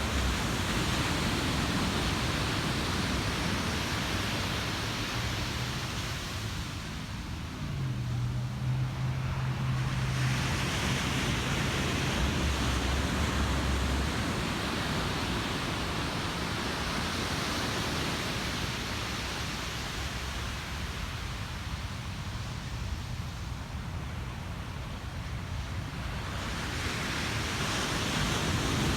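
Ocean surf breaking and washing up the shore. It swells and eases in slow surges several seconds long, with a louder rush about ten seconds in and another building near the end.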